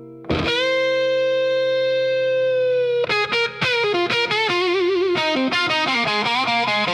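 Electric blues guitar solo with a distorted tone: one note struck and held for about two and a half seconds, then a fast run of notes with string bends and vibrato.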